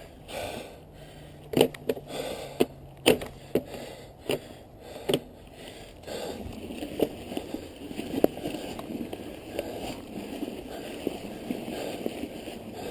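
A clipless cycling shoe's cleat knocked sharply against the pedal about eight times in the first five seconds to clear packed ice, then a steadier rough rolling noise with small clicks as the bike moves on.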